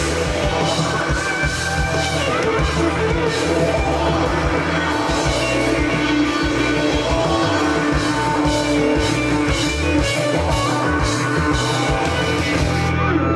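Live rock band playing the closing bars of a song, with electric guitar and drum kit, the band stopping right at the end.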